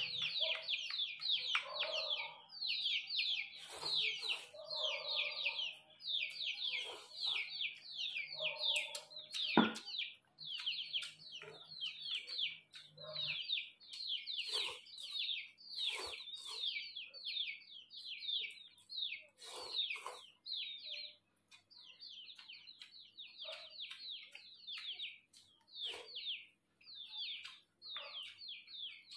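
Small birds chirping continuously in rapid clusters of short, downward-sliding notes, with scattered light clicks of chopsticks against a bowl.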